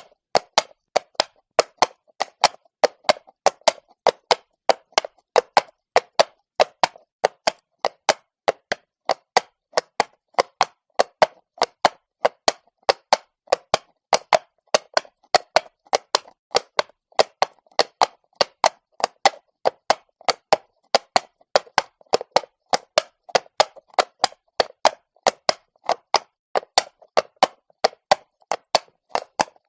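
A horse walking on stone, its hooves striking in sharp clops at about three a second, in a slightly uneven walking rhythm.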